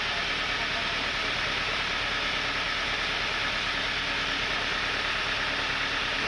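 Sawmill machinery running steadily: a constant, even rushing noise with a faint low hum underneath.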